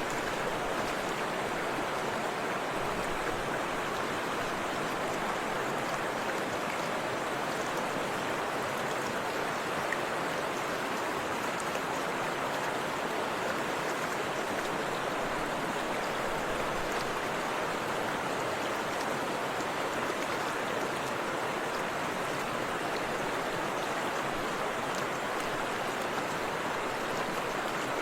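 Forest river rushing over a small waterfall: a steady, even wash of flowing water with faint splashes.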